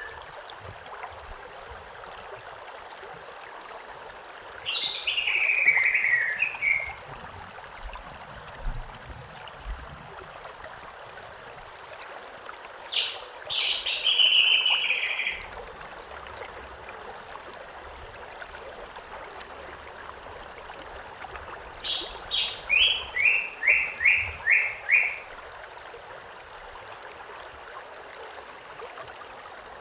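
A river or stream flowing steadily, with a songbird singing three short phrases of falling notes; the last is a run of about eight quick descending notes.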